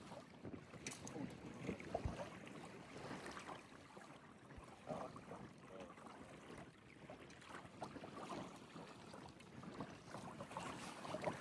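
Faint lakeside ambience: soft, irregular water lapping with light wind on the microphone.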